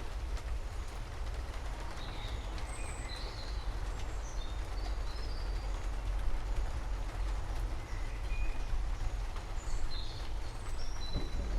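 Songbirds chirping in short, scattered calls over the steady hiss and low rumble of a thunderstorm.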